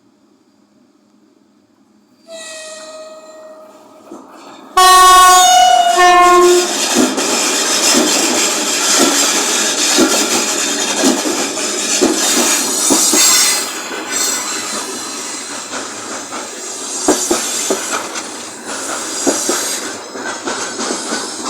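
3ES5K "Ermak" electric locomotive sounding its horn as it approaches: a first held note about two seconds in, then a much louder blast near five seconds and a shorter second blast. The freight train then runs past, wagon wheels clacking rhythmically over the rail joints.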